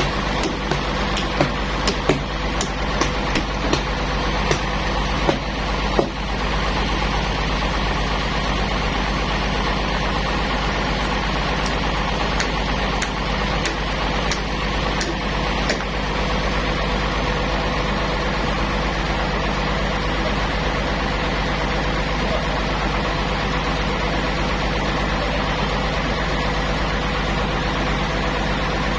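Sawmill machinery running with a steady motor hum, with sharp clicks and knocks scattered through the first sixteen seconds or so.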